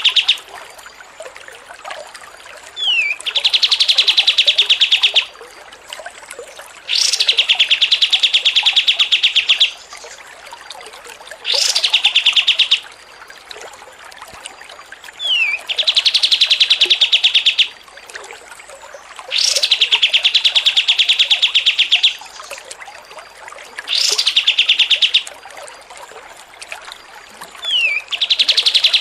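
A songbird singing the same chattering phrase over and over. Each phrase is a sharp rising or falling note followed by a fast, even trill lasting one to three seconds, and it comes back every few seconds, as in a looped 'masteran' training track for songbirds.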